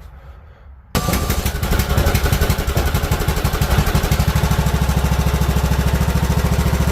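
Craftsman T1600 riding mower's engine, running on a freshly fitted replacement carburetor, catches suddenly about a second in and then runs loudly and steadily.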